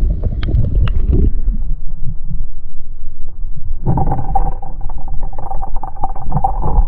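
Wind buffeting the microphone on a small boat at sea. A steady motor hum starts about four seconds in.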